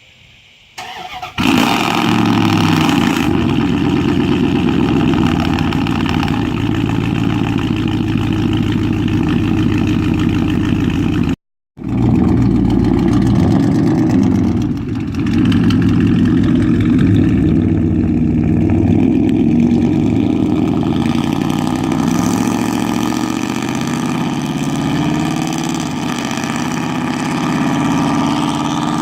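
A Dodge Ram 1500's 5.9 L V8 with straight-piped exhaust (2 1/4-inch true duals, allflow cats, gutted glasspacks) starts about a second in. It then runs loud and steady. Near the middle the sound cuts out completely for a moment.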